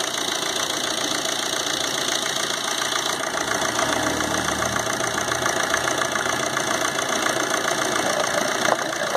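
Suzuki car's diesel engine idling steadily, heard close up at the open bonnet, with a fast, even ticking. It is running with the oil filler cap being opened to check for crankcase back-pressure.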